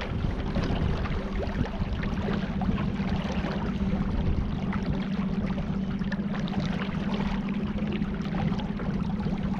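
Water splashing and sloshing around a small boat on a river, with a steady low hum underneath.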